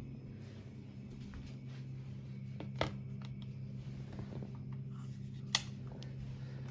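Steady low hum with two short, sharp clicks about three seconds apart, as kitchen items such as the eggs and the oil bottle are handled and set down.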